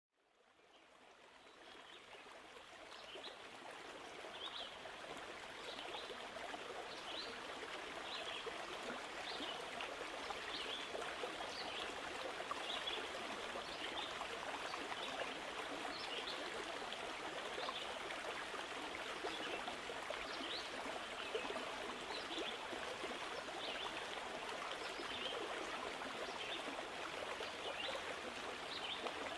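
Steady running water like a stream, fading in over the first few seconds, with small high ticks scattered through it.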